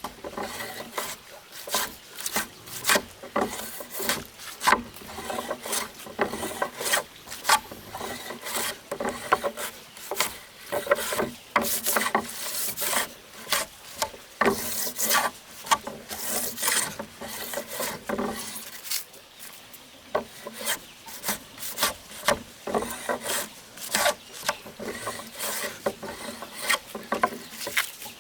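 Wood being worked with a hand tool: a long run of irregular scraping, rasping strokes, with a quieter stretch about two-thirds of the way through.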